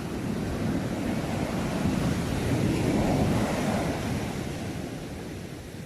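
Sea waves washing onto the shore: the surf builds to a peak about halfway through, then recedes. Wind rumbles on the microphone.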